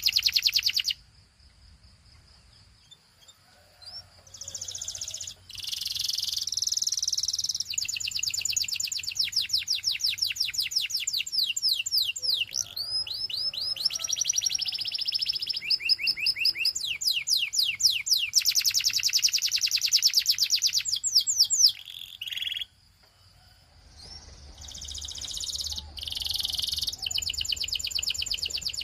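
Canary singing: long phrases of fast trills, rapidly repeated chirps and sweeping notes, broken by two short pauses, one about a second in and one about three-quarters of the way through.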